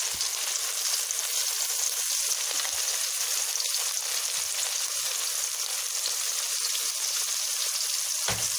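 Flour-dusted fish frying in hot oil in a pan: a steady sizzle with faint crackles, and a short knock near the end.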